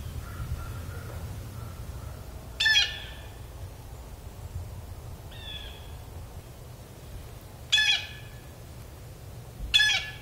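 A bird giving short, loud, harsh calls from the treetops: three spaced a few seconds apart, with a fainter one between them, over a low steady rumble.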